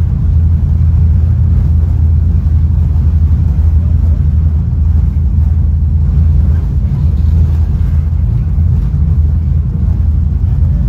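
Steady low rumble of a Caltrain Gallery bilevel passenger car running at speed, heard from inside the car.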